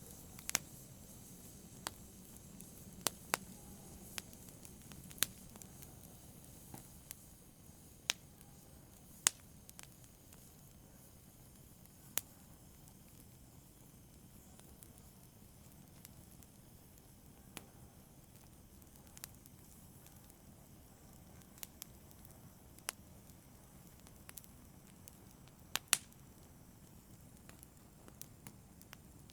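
Fire in a brazier crackling softly: irregular sharp snaps and pops, a second or two apart, over a faint low hiss.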